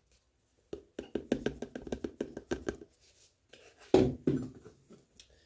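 A quick run of light taps and clicks from a kitchen container being handled, likely nutritional yeast being shaken out, then a single louder knock about four seconds in.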